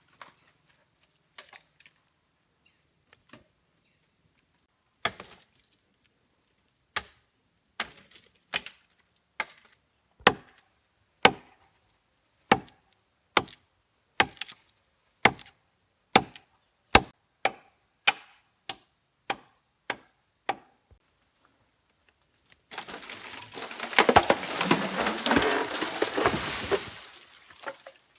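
Wood being chopped: about twenty sharp strikes, one to two a second. Near the end comes a few seconds of dense crackling and rustling, like brush or branches being broken and handled.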